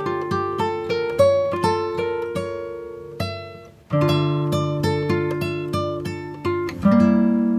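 Background music: a plucked acoustic guitar playing picked notes and chords at a steady pace, with a short pause a little past halfway.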